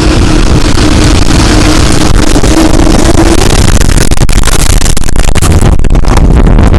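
Violent tornado wind blasting the microphone, loud and overloaded, with a steady hum that fades about halfway through and crackling in the later seconds.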